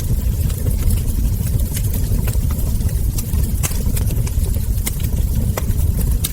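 Wood fire crackling, with irregular sharp pops and snaps over a steady low rumble from the burning logs.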